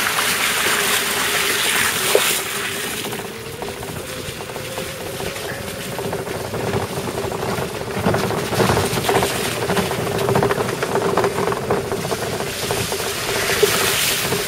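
A small vehicle driven over rough, wet ground: a steady motor whine, rising briefly a few seconds in, with knocks and rattles from the bumps.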